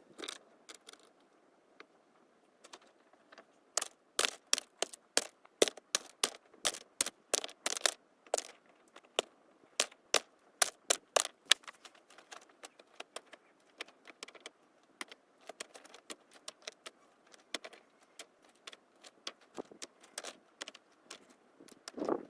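Small wood campfire crackling: irregular sharp pops and snaps, dense for several seconds, then thinning out to scattered pops.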